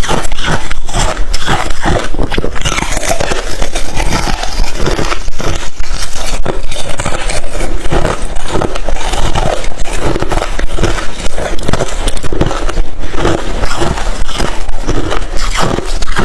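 Close-miked chewing of crushed chip ice and thin refrozen ice: a dense, continuous run of loud, sharp crunches and crackles.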